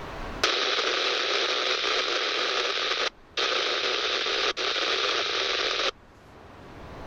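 Marine VHF radio hissing with static, a keyed transmission carrying no voice. It comes on abruptly, drops out briefly twice, and cuts off sharply after about five seconds.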